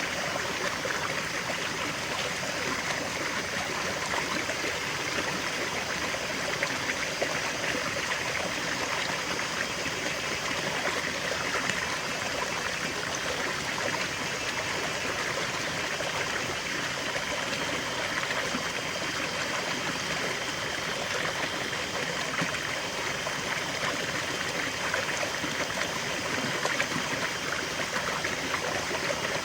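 River water flowing steadily over stones, a continuous rushing and trickling with no break.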